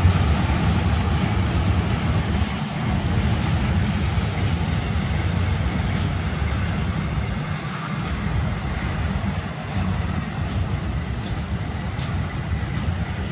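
Loaded double-stack container well cars of a freight train rolling past, a steady rumble and rattle of steel wheels on the rails, with a few light clicks near the end.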